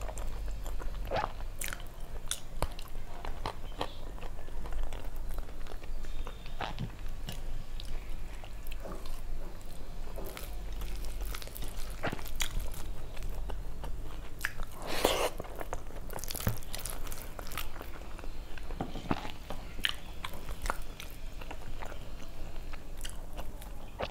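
Chewing and mouth sounds of a person eating rice and fried fish by hand, picked up close on a clip-on microphone: irregular smacks and clicks, with a louder cluster about fifteen seconds in.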